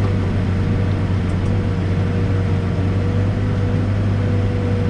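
Backhoe's diesel engine running steadily under hydraulic digging load, with a steady whine over the engine hum; the engine note shifts lower right at the start, then holds.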